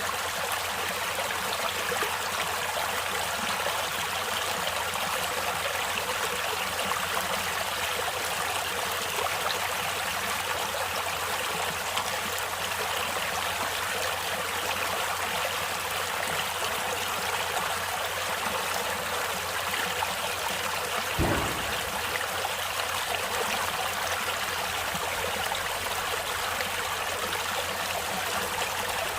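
Water in a natural stream flowing and trickling steadily, with one brief low thump about two-thirds of the way through.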